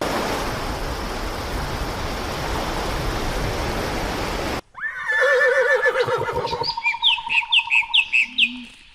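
A steady hiss-like noise cuts off abruptly after about four and a half seconds. Then several birds call: a wavering warble, a fast even trill, and near the end a run of about seven quick falling chirps.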